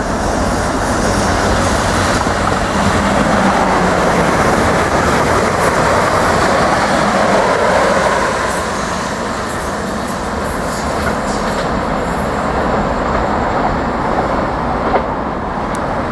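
A South West Trains Class 444 Desiro electric multiple unit running past, a steady rumble of wheels on the rails and pointwork, loudest as it passes and easing off as it moves away.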